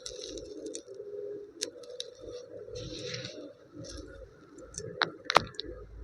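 Handling noises over a low steady hum: short rustling bursts and a few sharp clicks and taps, the loudest pair about five seconds in.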